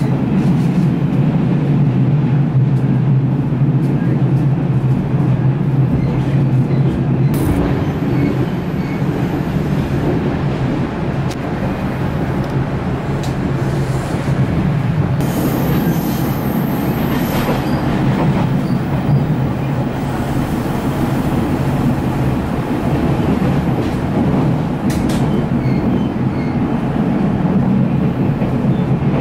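Ride noise inside a Taiwan Railways Fu-Hsing express passenger coach under way: a steady loud rumble of steel wheels on the rails. A thin high-pitched wheel squeal rises over it twice, about eight and fifteen seconds in.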